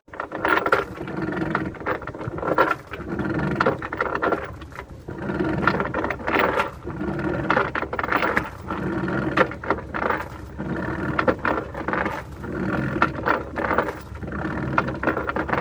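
Anchor being raised by hand on a sailboat: a repeated scraping, ringing stroke about once a second, one pull after another.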